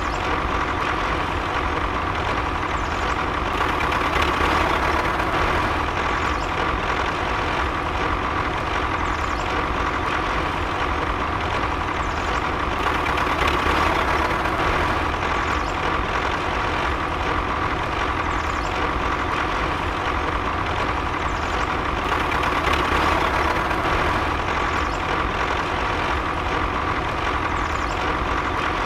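Steady engine-like running sound with a constant hum, swelling slightly about every nine seconds.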